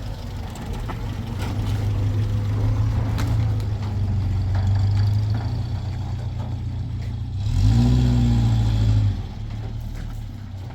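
A motor vehicle engine running steadily, with a swell in loudness and rising pitch about eight seconds in, as if revving or accelerating briefly. A few light clatters come over it.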